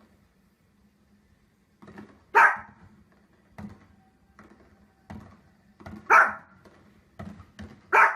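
A dog barking: three loud single barks about two and a half, six and eight seconds in, with softer, shorter sounds between them.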